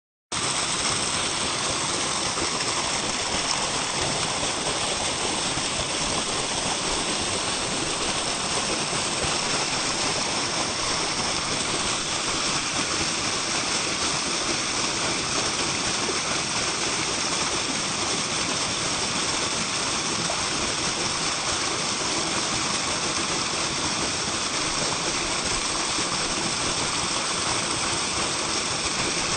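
Waterfall: water falling and splashing with a steady rushing hiss.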